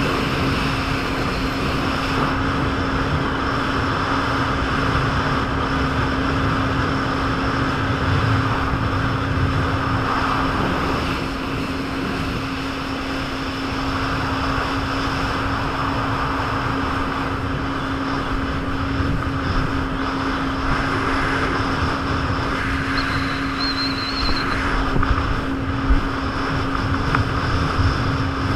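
Jet ski engine running under way at a steady pitch over a dense rushing noise, with a few sharp knocks near the end.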